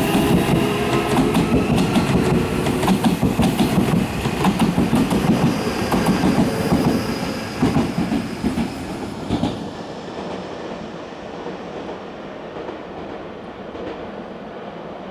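Nankai 8000 series electric train running out of the station, its wheels clicking over the rail joints; the sound fades away from about eight seconds in.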